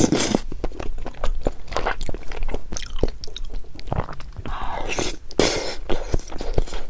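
Close-miked crunchy chewing and biting: a dense run of irregular crackling crunches.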